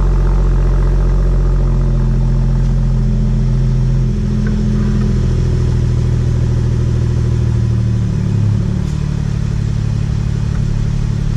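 BMW 340i's turbocharged inline-six running through an FI Exhaust cat-back system, a deep steady exhaust note. The engine note changes about four seconds in and again about eight seconds in, with a brief louder moment around eight seconds.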